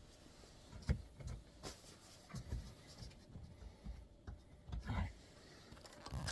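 Hands fumbling in a tight opening: scattered light knocks, rubs and scrapes of fingers against plastic trim and wiring while feeling for a connector.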